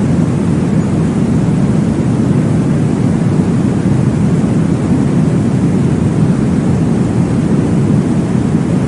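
Steady, deep whooshing noise of a womb-style baby sleep sound, an even rumble weighted toward the low end with no breaks.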